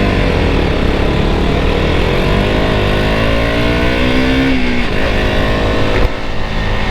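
KTM RC 200's 200 cc single-cylinder engine pulling under acceleration as the bike is ridden, its pitch climbing steadily for about four seconds, dipping briefly about five seconds in, then climbing again.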